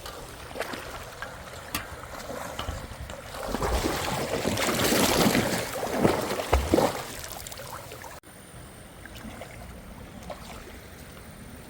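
Water splashing as someone wades across a shallow flood-swollen creek, loudest midway with a couple of heavier splashes, then settling to the steady rush of the stream.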